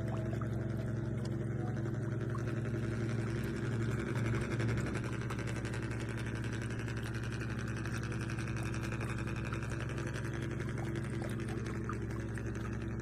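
Small electric motors of radio-controlled models running with a steady hum, over a watery hiss, swelling briefly about four seconds in.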